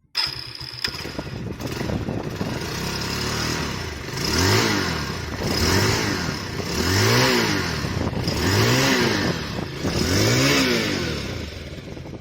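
Bajaj Pulsar 180F's single-cylinder engine idling, then revved up and let back down five times in a row. It is still running on its old oil, due for a change at its fourth service.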